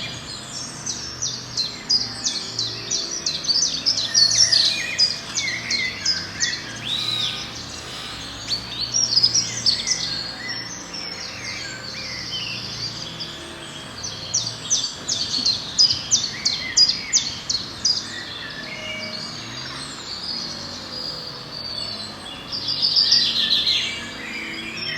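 Several small birds chirping and singing together in quick runs of sharp high notes, the chorus thickening in bouts and easing off in between.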